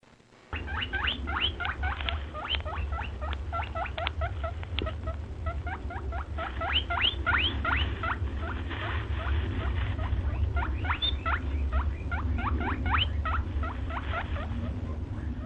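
A small animal squeaking rapidly: a long run of short, sharply rising squeaks, several a second, over a steady low hum.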